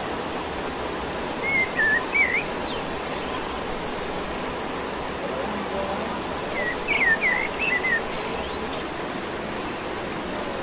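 Outdoor forest ambience: a steady hiss of background noise, with a bird whistling a short run of chirps twice, about one and a half seconds in and again about seven seconds in.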